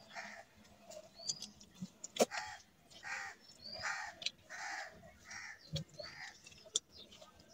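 A crow cawing in a steady series of short caws, a little under a second apart, with a few sharp clicks and faint small-bird chirps.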